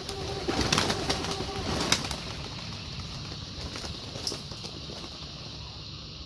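Domestic pigeons cooing, with scattered sharp clicks and taps among them.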